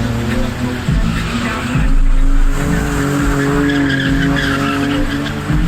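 A car engine revving hard while its tyres squeal and skid, the sound of a car drifting. The engine pitch holds high and swells in loudness about two seconds in.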